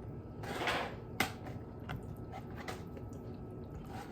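Tableware being handled during a meal: a short rustle about half a second in, a sharp click just after a second, then a few lighter clicks, like a fork and food containers being moved about.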